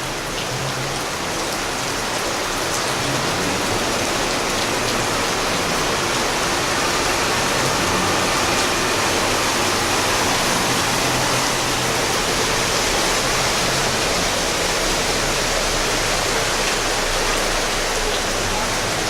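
Steady, even rush of water, as in heavy rain during a flood.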